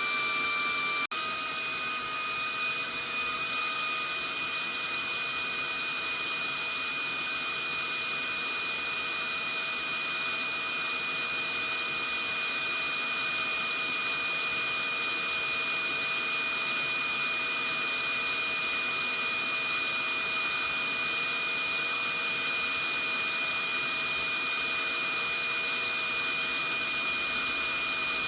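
Vacuum cleaner running steadily, a rushing hiss with a constant high whine. It cuts out for an instant about a second in, then resumes a little louder and settles back to an even level.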